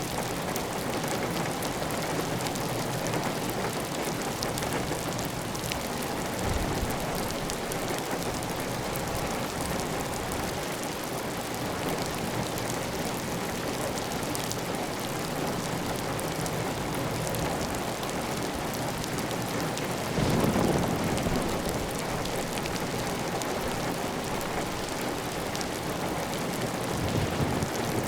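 Steady heavy rain on a clay-tile roof, with water running off the roof edge. About two-thirds of the way through there is a brief deeper, louder surge.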